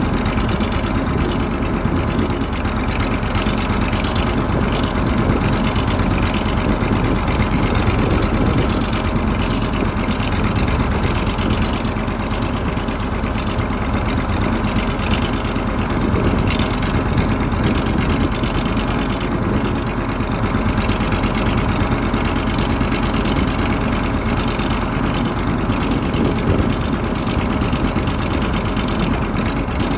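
1985 KAMAZ 4310 6x6 military truck's V8 diesel engine running steadily and loudly while the truck drives.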